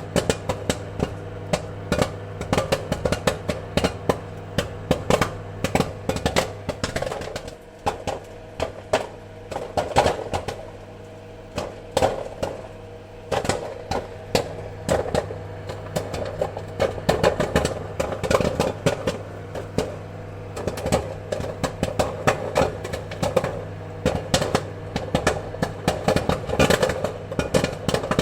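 Popcorn kernels popping: many sharp, irregular pops, several a second, over a steady low hum.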